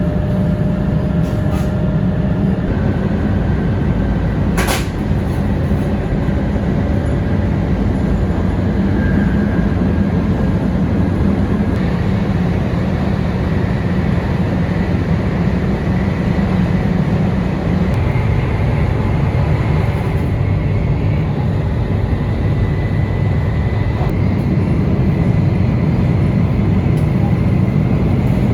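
Shinkansen bullet train running, a steady low rumble heard from inside the passenger cabin, with one sharp click about five seconds in.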